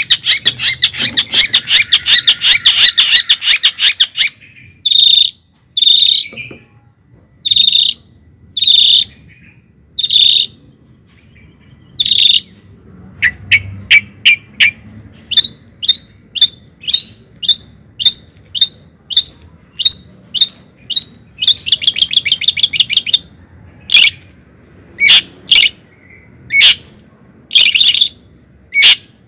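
A bird chirping: a dense rapid run of high chirps, then single calls about a second apart, then a steady series of quick chirps about two a second with another fast run near the end.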